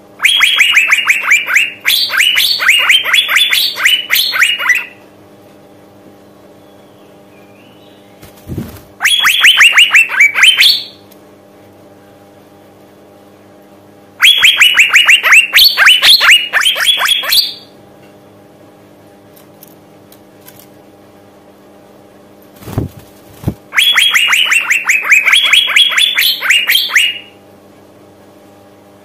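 Female Asian fairy-bluebird calling, a call of a female in breeding condition calling to males. It gives four bouts of rapid, sharp repeated notes, several a second, each bout lasting a few seconds with pauses between. A faint steady hum lies underneath.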